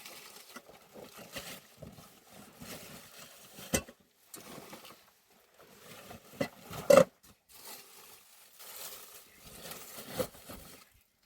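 A few sharp knocks and clatters over irregular rustling, the loudest about seven seconds in.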